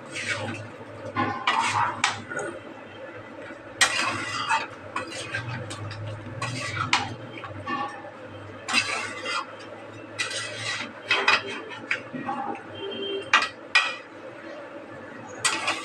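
A metal spoon scraping and clinking against a cooking pot in irregular short strokes as a curry is stirred, over a steady low hum.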